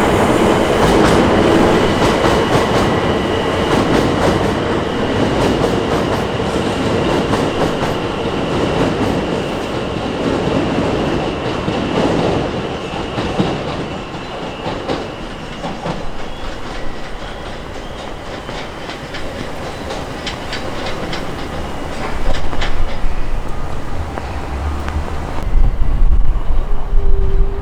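London Overground electric train running on the track, its wheels clicking over rail joints amid steady rumbling rail noise, loudest at first and easing off through the middle.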